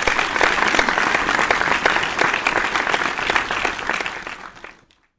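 Applause from a crowd, a dense patter of many hands clapping that fades out near the end.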